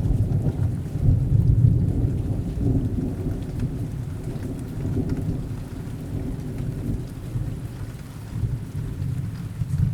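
Steady rain with a long, low roll of thunder. The thunder is loudest about a second in and slowly dies away, with a smaller swell near the end.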